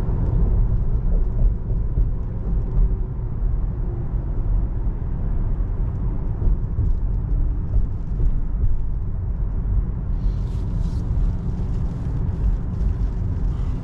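Steady low road and tyre rumble inside the cabin of a moving 2024 Tesla Model 3, an electric car with no engine note. A brief hiss rises over it about ten seconds in.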